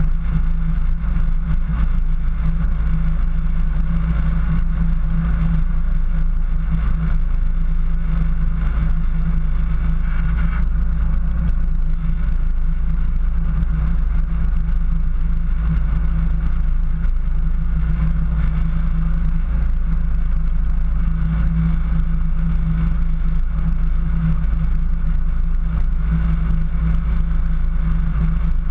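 A 4x4's engine running steadily as the vehicle drives along a snowy track: a constant low drone, the engine speed holding even with no revving.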